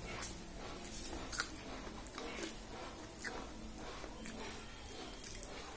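A person chewing a mouthful of soft millet khichdi eaten by hand, with small mouth clicks and smacks at irregular intervals.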